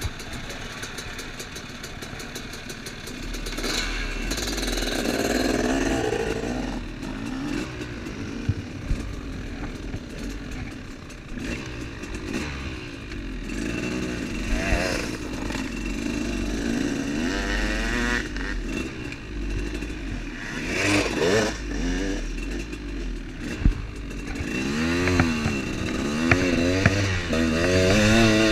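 Motorcycle engine running under way, its pitch rising and falling repeatedly as the throttle is worked, in quick up-and-down revs near the end, with an occasional sharp knock or rattle.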